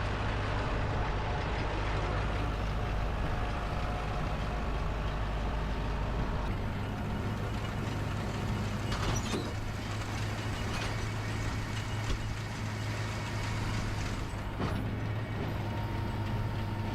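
Tractor engine running steadily with a deep hum; the lowest rumble eases about six seconds in, and a few short knocks come later.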